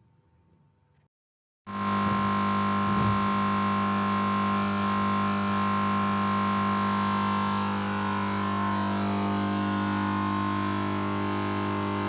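Electrical panel humming: a loud, steady mains hum with a higher whine on top, starting suddenly about two seconds in after near silence.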